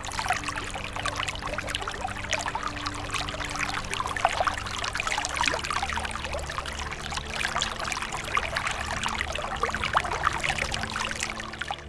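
Water pouring and trickling: a dense, continuous splashing made of many small spatters. It starts and stops abruptly.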